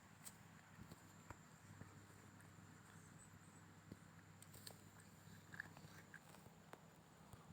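Near silence: faint room tone with a low steady hum, a thin high whine and a few soft scattered ticks.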